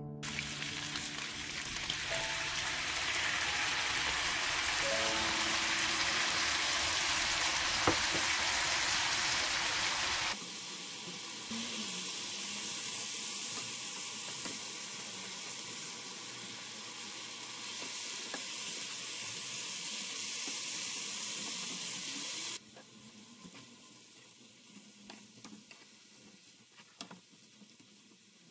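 Pork belly slices in a soy-sauce marinade sizzling in a hot frying pan as they braise. The sizzle is loud at first, drops abruptly about ten seconds in and again later to a quieter sizzle, with a few light clicks of tongs against the pan near the end.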